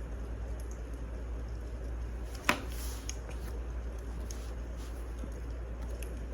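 Wood fire crackling with scattered small pops and one loud sharp pop about two and a half seconds in, over a steady low rumble.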